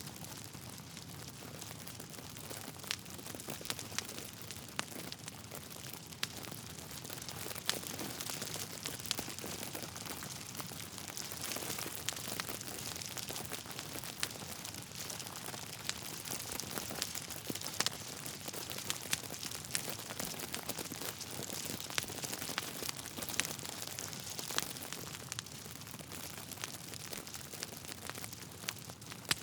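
Wood fire burning in a fireplace: a steady hiss with irregular sharp crackles and pops from the burning logs.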